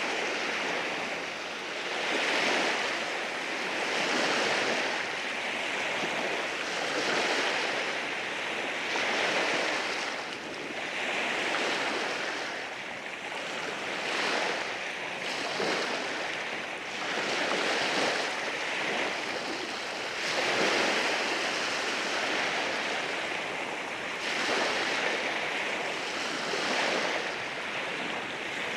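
Sea waves washing in over rocks, a steady rush of surf that swells and eases every two seconds or so.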